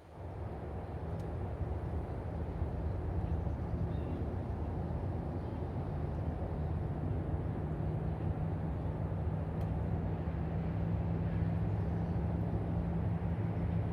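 A steady engine drone with a low hum, growing gradually louder over the first few seconds and then holding.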